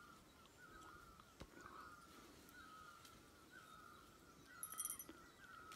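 Near silence with faint birdsong outdoors: a short wavering call repeated about twice a second, and a brief, sharper high chirp about four and a half seconds in, the loudest moment.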